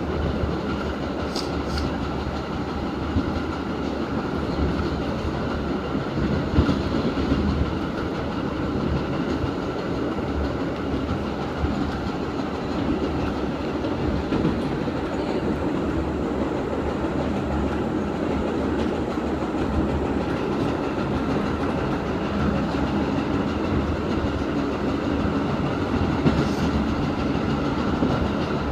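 Inside an R68 subway car riding at speed, its HVAC not running: a steady rumble of wheels on rail with a clickety-clack, a faint steady hum, and a few sharp clicks, one about a second and a half in and one near the end.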